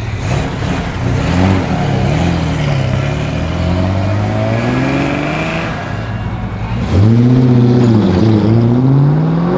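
A Charger muscle car's engine revving as it drives off, its pitch rising and falling with the throttle. The loudest rev comes about seven seconds in, with quick up-and-down blips, and the pitch climbs again near the end.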